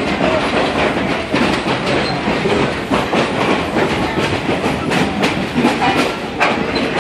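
Passenger railroad car rolling along the track: a steady rumble with repeated clicks as the wheels pass over rail joints.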